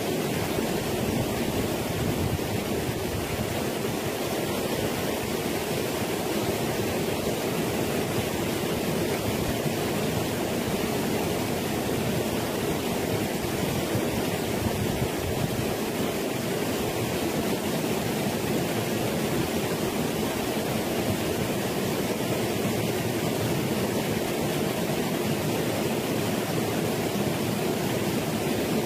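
Steady rushing of a stream's water, an even unbroken noise with no separate splashes or strokes.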